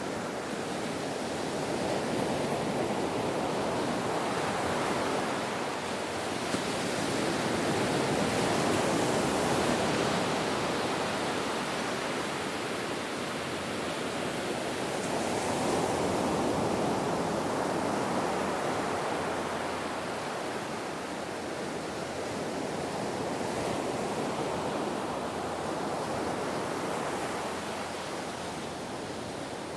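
Ocean waves washing in a steady rush that swells and eases every several seconds.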